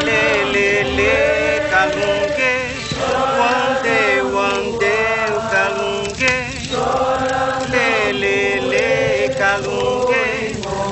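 A group of voices singing a slow chant, with long, wavering held notes sung in phrases.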